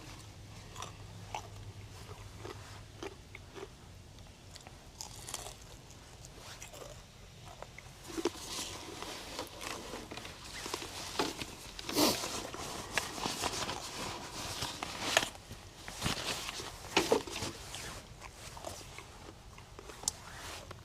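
A person chewing and crunching food close to the microphone, with irregular clicks and scrapes that are busiest from about eight seconds in until near the end.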